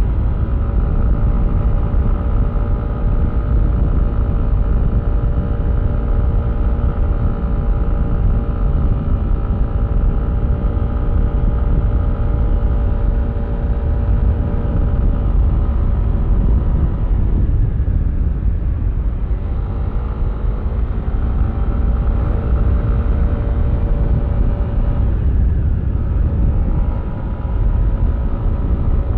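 Yamaha Aerox V3 scooter's 155 cc single-cylinder engine running at cruising speed over a heavy low rumble of wind and road. The engine note drops twice, about two-thirds of the way through and again near the end, as the throttle is eased, then rises again.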